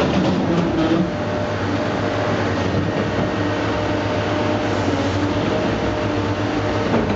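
Diesel engine and hydraulics of a swing-type scrap material handler running steadily under load, a continuous drone with a wavering hydraulic whine, while it swings and carries a small aluminum boat.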